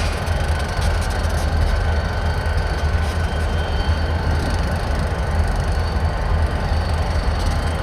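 Freight train rolling through a rail yard: a steady low rumble, with faint thin high tones held above it.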